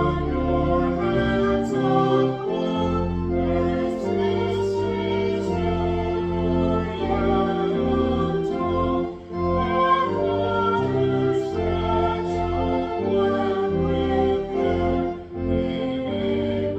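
Organ accompanying voices singing a slow hymn, with long held chords over a steady bass line.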